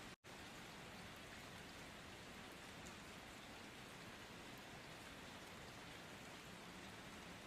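Steady rain falling, an even hiss of drops. The sound cuts out completely for an instant near the start, then carries on unchanged.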